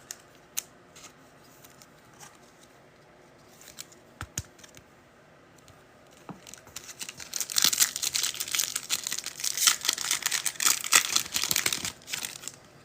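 A foil trading-card pack being torn open, its wrapper crinkling steadily for about five seconds from roughly halfway in, after a few faint clicks.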